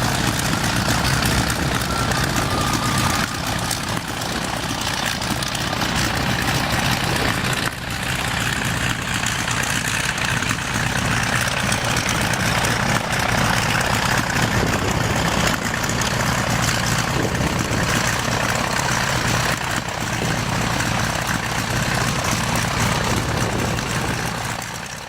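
A propeller aircraft engine running steadily, fading out near the end.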